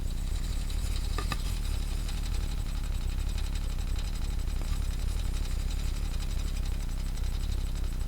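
Thermoacoustic Stirling engine running: a steady low hum with an even hiss over it, and a brief rattle about a second in.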